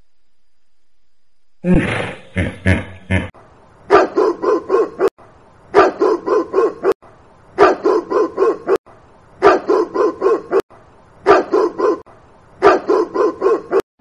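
Dog barking in quick bursts of about five barks each, the bursts coming evenly about every two seconds. The barking begins after a short silence.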